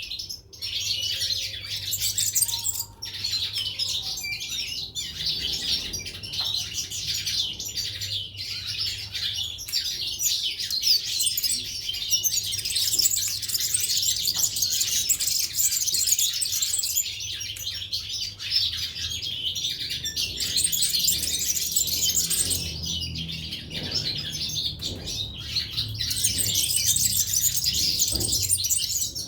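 Several caged European goldfinches and canaries chirping and twittering together: a dense, continuous, high-pitched chatter of many overlapping calls and song phrases.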